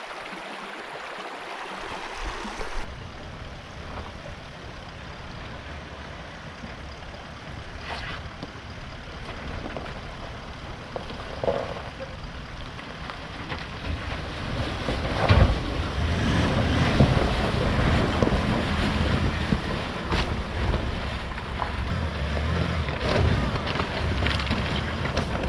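Vehicle driving over a rough bush track, a low rumble that grows louder about halfway through, with scattered knocks and bumps.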